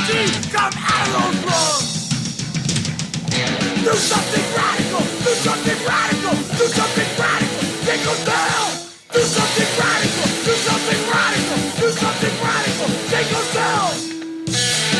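Hardcore punk band recording: distorted electric guitars, bass and drums playing fast and loud, with sliding notes. The music drops out for a moment about nine seconds in and comes straight back, then dips again near the end.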